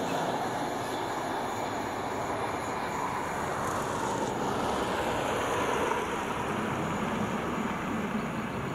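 Steady rumble of a freight train's wagons rolling away along the track, the train receding just after its last wagon has passed.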